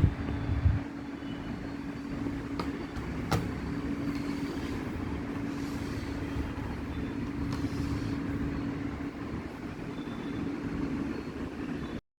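Steady low hum over a rumbling background noise, with a couple of sharp clicks a few seconds in; the sound cuts off suddenly near the end.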